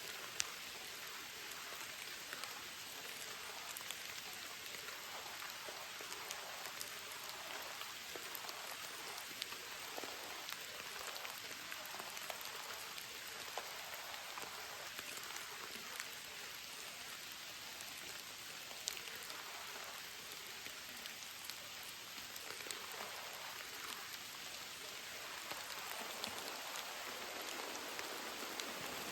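Steady heavy rain falling, with many individual drops ticking sharply through the hiss.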